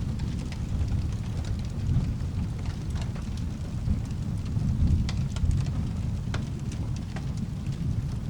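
Thunderstorm ambience: a steady low rumble of rolling thunder under rain, swelling slightly around two and five seconds in, with scattered sharp crackles and ticks throughout.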